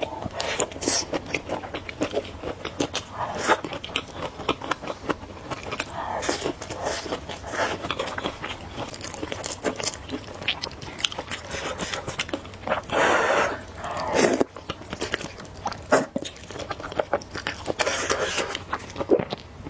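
Close-miked chewing and eating of spicy noodles with egg: rapid wet mouth clicks and smacks. One longer, steady rush of sound comes about thirteen seconds in.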